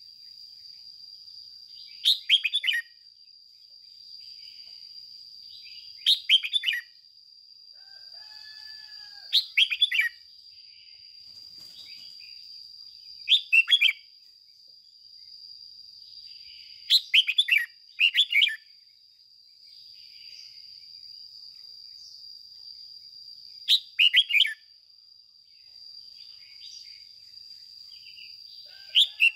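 Red-whiskered bulbul singing short, loud, chattering phrases, one every three to four seconds, some given in quick pairs. A faint steady high whine runs beneath.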